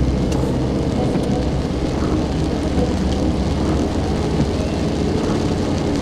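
Steady low rumble of a car driving on rain-wet roads, with no distinct events.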